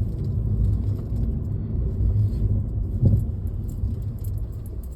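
Car being parked, a low steady rumble that eases off toward the end, with a brief knock about three seconds in.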